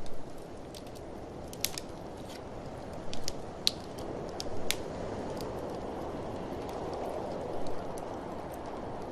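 Wood fire crackling, with irregular sharp pops, over a steady rush of blizzard wind.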